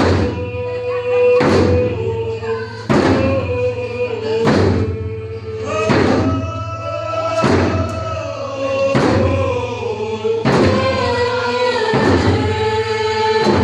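A group singing a Pacific Northwest Coast Native song together over a slow, steady drumbeat, about one strike every second and a half.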